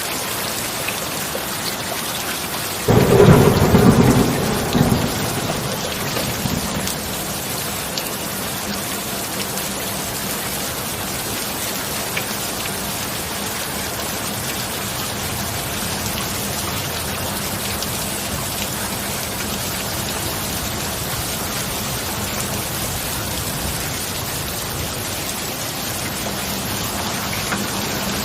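Steady heavy rain with a single thunderclap about three seconds in, a sudden loud crack that rumbles away over a few seconds before the rain carries on alone.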